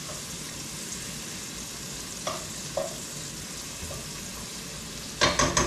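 Sliced onions sizzling in butter and olive oil in a skillet, a steady frying hiss. A few light clicks of a utensil against the pan, then a quick run of loud stirring or scraping strokes near the end.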